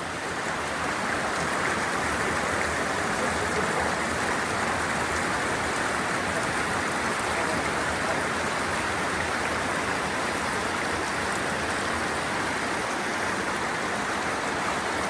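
Floodwater pouring through a railway tunnel: a steady rush of water that does not change.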